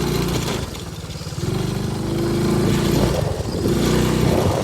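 Small motorcycle engine running under load as the bike rides up a hill. Its note dips about a second in, then picks up and builds steadily.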